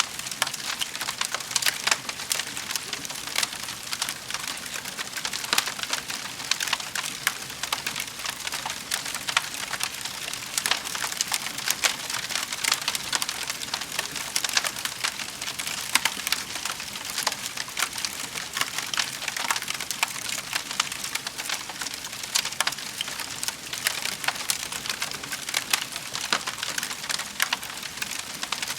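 Wood fire crackling in a fireplace: a steady stream of small pops and snaps.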